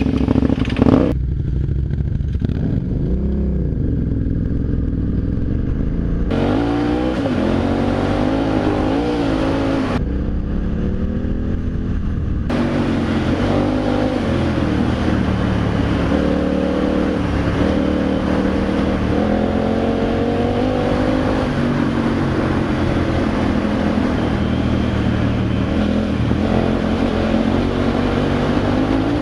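KTM adventure motorcycle's V-twin engine pulling away and accelerating along the road, its pitch rising and then dropping again with each gear change.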